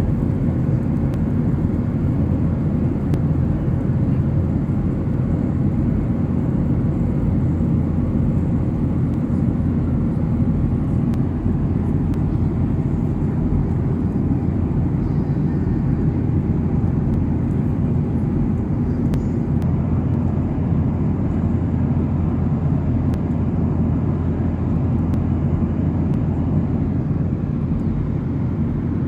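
Steady in-flight cabin noise of a Boeing 737-800: a constant low rumble from its engines and the airflow, with a faint hum on top and no change in level.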